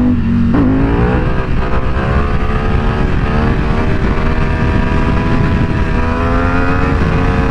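Motorcycle engine pulling hard under acceleration: its pitch jumps up about half a second in, then climbs slowly and steadily, over a heavy low rumble.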